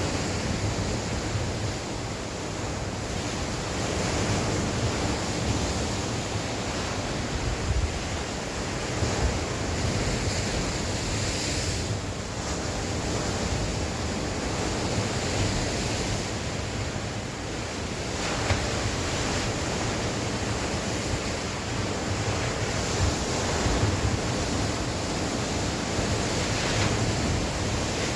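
Sea waves washing in: a continuous surf that swells and eases every few seconds, with wind gusting over the microphone.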